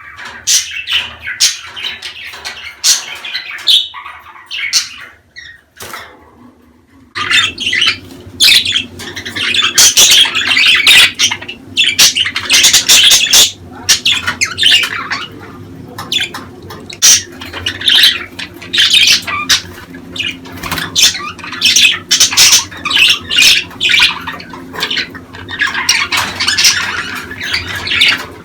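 A flock of budgerigars chattering with rapid squawks and warbling chirps. It is the kind of budgie chatter played to encourage breeding. The calling thins briefly around six seconds in, then comes back denser and louder.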